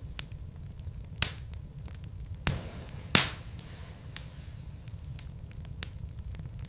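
Wood logs burning in a fireplace: irregular sharp crackles and pops over a steady low rumble, with a few louder pops, the loudest about three seconds in.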